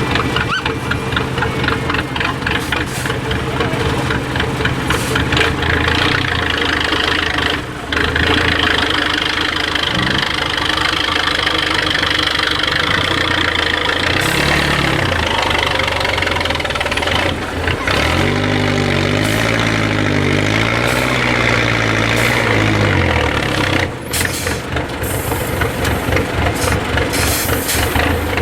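IFA W50 truck's diesel engine running under load on a trial course, revving up and down repeatedly as it works through the section. The sound breaks off abruptly a few times.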